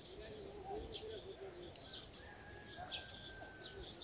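Faint birds chirping, short high calls scattered throughout, with one long, steady whistled note starting about two seconds in.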